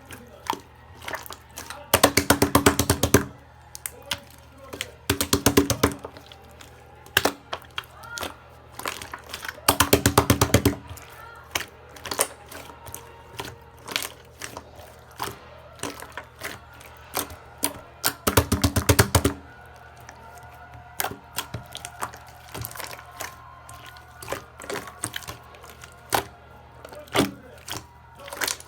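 Slime with clay topping being pressed, folded and stretched by hand: scattered small clicks and squelches, with four bursts of rapid crackling pops about a second long.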